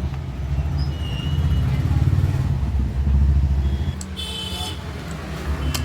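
A motor vehicle engine running close by, swelling louder twice, with a short high-pitched toot a little after four seconds in.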